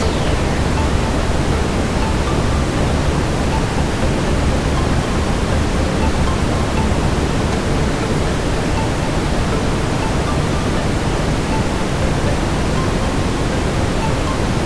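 Steady brown noise: a deep, even rushing hiss weighted toward the low end, with faint, scattered crackles from a burning fireplace mixed in.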